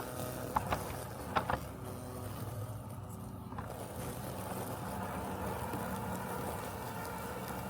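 Robotic lawn mower running with a steady mechanical hum. Two quick pairs of short, sharp clicks come about half a second and a second and a half in. Midway through the hum takes on a brighter, fuller tone.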